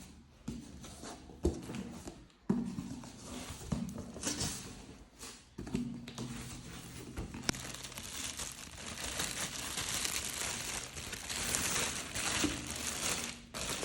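Packaging crinkling and tearing as a new light fitting is unwrapped, with a few sharp knocks.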